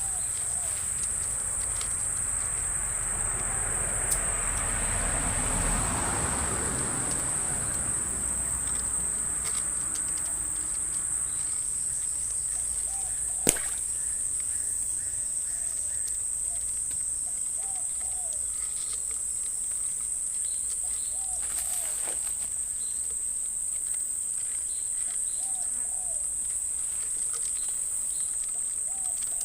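Steady high-pitched drone of insects, with short faint chirps recurring every few seconds. A swell of rushing noise rises and fades in the first several seconds, and a single sharp click comes about halfway through.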